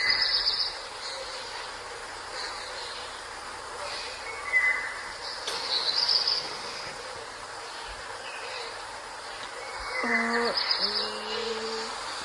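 Birds chirping over a steady outdoor hiss, with short high trills scattered throughout and a lower two-part hooting call about ten seconds in.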